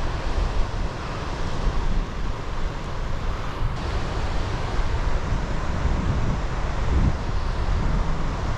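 Wind blowing across the microphone, a steady, uneven low rumble, with ocean surf washing on the rocky shore underneath.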